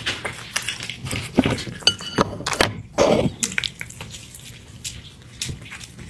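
Kitchen handling noises while cat food is prepared: irregular clicks and knocks, with a short ringing clink of a dish or utensil just before two seconds in.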